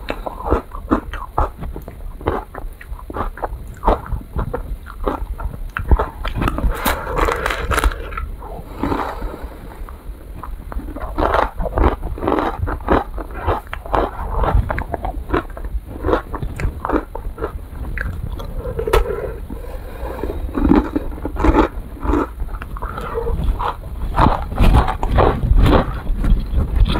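Chewing and crunching an ice cream cone: a dense, irregular run of crisp crunches and mouth clicks.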